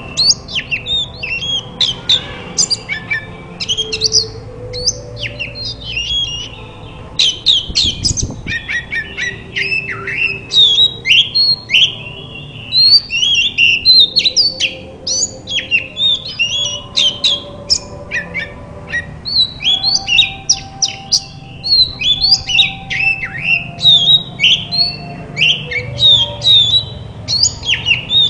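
Oriental magpie-robin (kacer) singing without a break: a fast, varied stream of short whistles and chirps.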